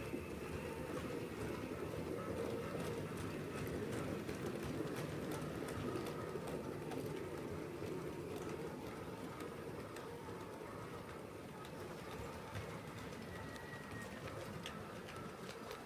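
7mm scale model train running along the track: a steady rumble of motor and wheels with light clicks, easing off slightly in the second half.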